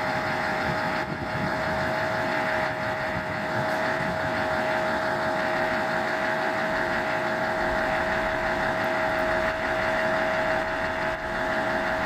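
Diesel railcar idling, its engine running at an even, steady level with a constant high-pitched hum over it.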